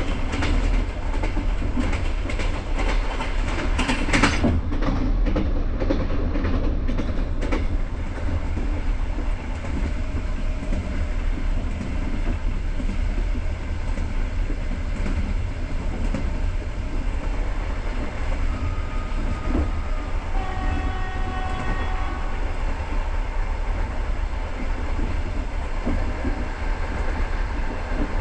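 Passenger train running, heard from inside a carriage: a steady low rumble with sharp wheel clicks over the rails through the first several seconds. A train horn sounds for about two seconds some twenty seconds in.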